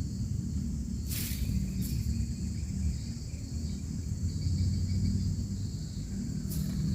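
Outdoor ambience of a steady high insect drone over a low rumble, with a few short sharp clicks about a second in, around two seconds in, and near the end.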